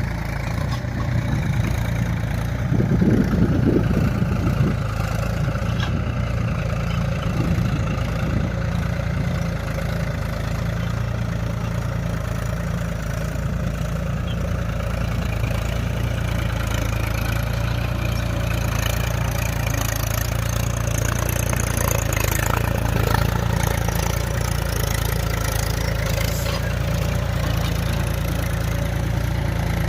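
Mahindra tractor's diesel engine running steadily at low revs, briefly louder about three seconds in.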